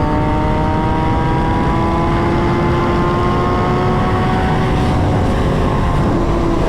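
Vehicle engine running at steady cruising speed, its pitch climbing slowly and then easing slightly, over heavy wind and road rumble.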